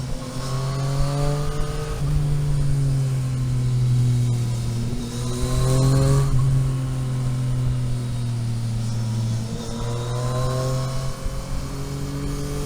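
Car engine heard from on board, rising in pitch three times as it accelerates, over a steady low drone.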